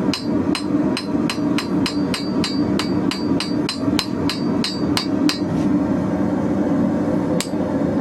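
Hand hammer striking hot 16 mm square steel bar, about three blows a second with a short metallic ring, stopping a little after halfway with one last blow near the end. A steady low roar runs underneath.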